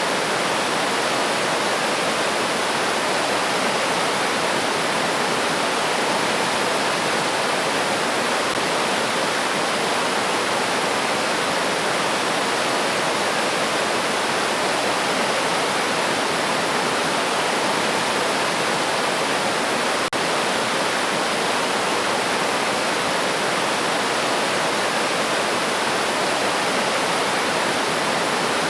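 River water rushing steadily over rocks, a continuous even wash of sound.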